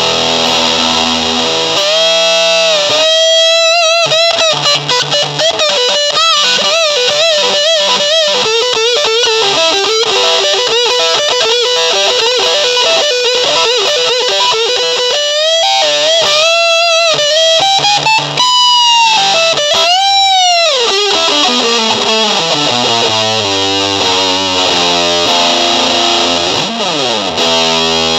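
Distorted electric guitar playing a lead line: wavering, bent notes and quick runs, with a long downward pitch dive a little past the middle and another near the end.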